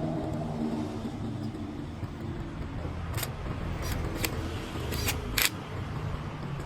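Steady low rumble of a motor vehicle's engine, its pitched hum fading in the first second. Several sharp clicks come between about three and five and a half seconds in.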